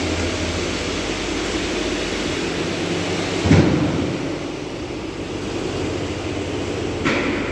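Steady industrial machine noise and hum, with a heavy thump about three and a half seconds in and a lighter knock near the end.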